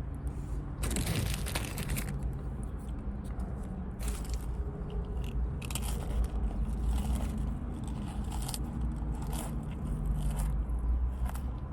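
A person chewing and eating sliced deli turkey close to the microphone, with short crackling noises coming every second or two.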